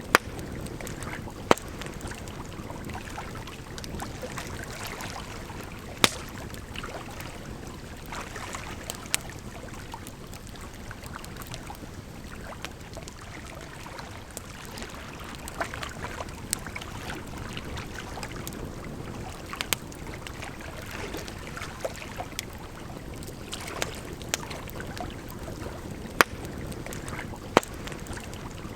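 Campfire crackling, with sharp irregular pops, over a steady rush of running water.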